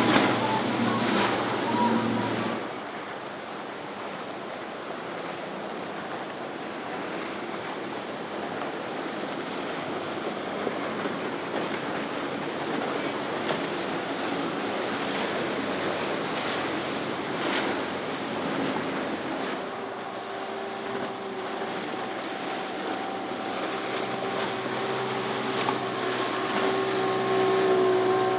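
Outboard engines of a passing center-console boat drop away about two seconds in, leaving a steady wash of waves, boat wake and wind. In the last third a second boat's outboards come in as a steady engine tone that grows louder as it approaches.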